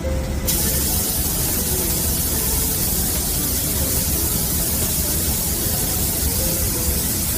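Compressed-air spray gun spraying primer surfacer: a steady hiss that switches on about half a second in, over a low rumble.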